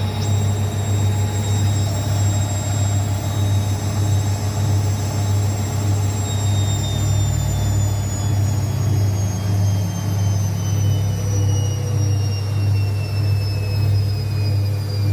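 Zanussi ZWSE680V front-loading washing machine on its final spin: a steady low hum under a high motor whine, which begins to fall slowly in pitch about halfway through as the drum speed eases off.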